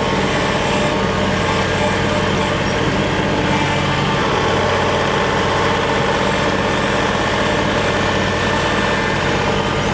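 Compact diesel tractor engine running steadily at a constant speed while working a pile of asphalt millings.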